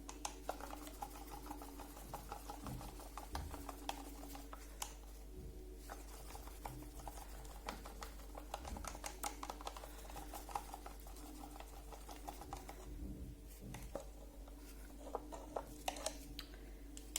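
Small batch of epoxy resin, tinted with black dye and pearl pigment, being stirred in a cup: faint, irregular light clicks and scrapes of the stirring stick against the cup.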